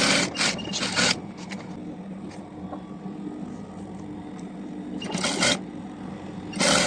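A few short scraping or hissing noises, four in all with long gaps between them, over a steady low hum.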